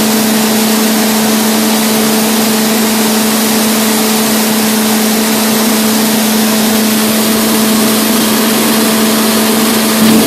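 Steady in-flight cockpit noise of a Canadair CT-114 Tutor jet: an even, loud rush of airflow and single turbojet engine with a constant low hum running under it.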